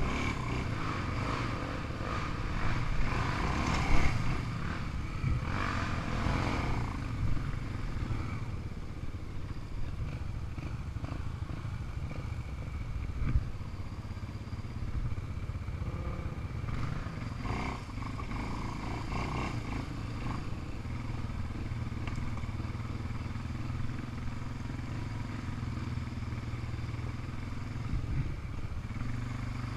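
Small off-road vehicle engine running at a steady idle, with a few louder engine swells in the first several seconds and again a little past halfway.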